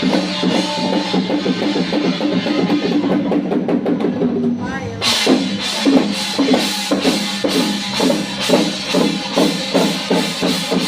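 Music with drums and percussion beating in a steady rhythm over pitched instruments; a brighter, hissing layer of strikes comes in about five seconds in.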